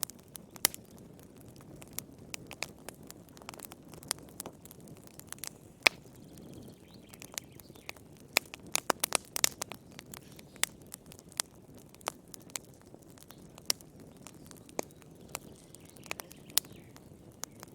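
Wood fire in a fireplace crackling, with irregular sharp pops and snaps over a soft low hiss of flame. The pops come thickest about halfway through.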